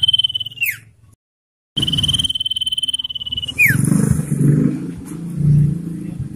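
Common iora singing its long trilled whistle, a rapid even trill on one high pitch that ends in a quick downward slur. It comes twice, with a brief dead gap between the two. After the second, a loud low rumbling noise takes over.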